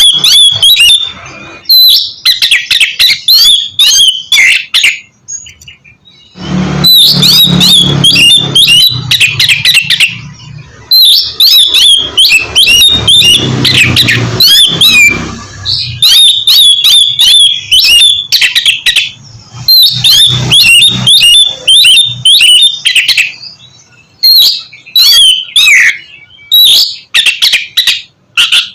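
Oriental magpie-robin (kacer) singing loud, rapid phrases of whistles and chirps, with a few short pauses between bursts of song.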